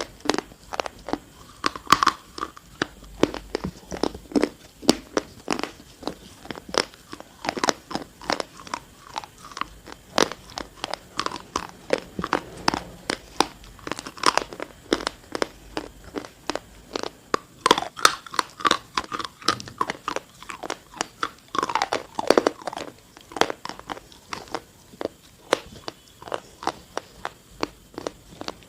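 Close-miked biting and chewing of dry, brittle edible earth, with a steady run of sharp crunches several times a second.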